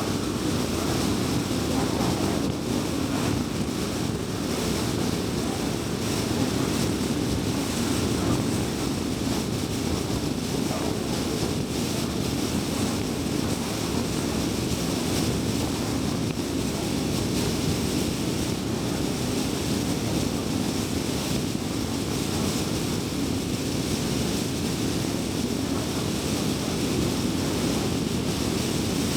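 Car driving along an expressway: a steady rush of tyre and road noise, deep and even, with no change through the stretch.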